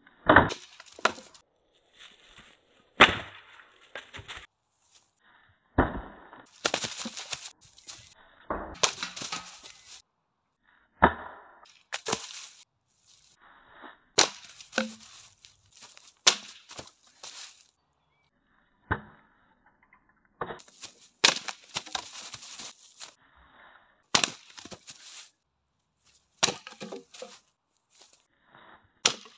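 Dry, partly rotten branches snapping and splintering under karate hand and foot strikes: a dozen or so sharp cracks, about every two seconds, each trailed by crackling of breaking wood.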